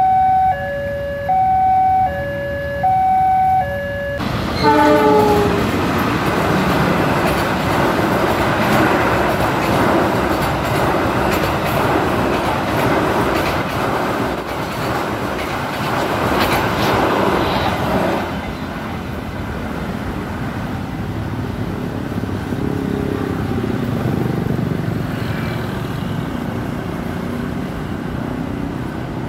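A railway level crossing's electronic warning alarm sounds, alternating between a high and a low tone, for the first four seconds. Then a train horn sounds briefly with a falling pitch, and a passenger train passes with its wheels clattering on the rails until about 18 seconds in. After that a quieter steady background noise continues.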